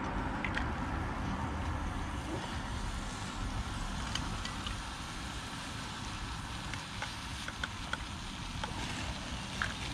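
Bacon and black pudding frying in an open sandwich-toaster pan over a gas canister stove set low: a steady sizzle and burner hiss over a low rumble, with occasional small crackles and clicks, more of them in the second half.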